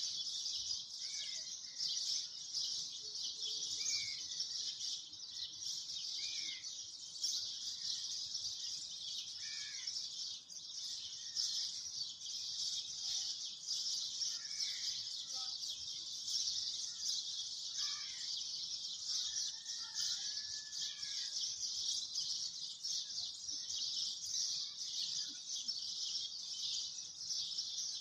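Birds chirping with short, scattered calls over a steady high-pitched hiss.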